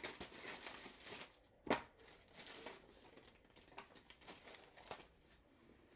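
Plastic packaging crinkling and rustling as it is handled, with small clicks and one sharp knock a little under two seconds in.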